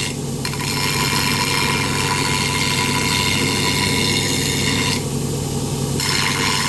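Power grinder rough-grinding an aluminum boat propeller, running steadily with a bright grinding hiss. The high grinding noise thins out briefly at the start and again for about a second near the end, as the contact with the metal eases.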